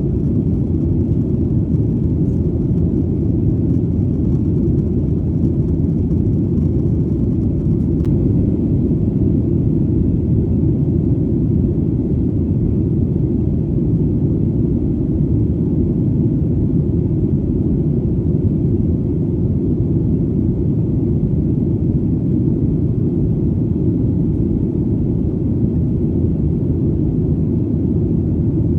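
Airplane engine noise heard as a steady, deep rumble that keeps an even level throughout, with little above the low end.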